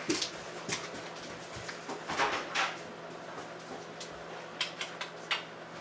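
Kitchen handling noises: a scatter of light clicks and knocks with a few short scraping rustles, as herb jars and lids are handled.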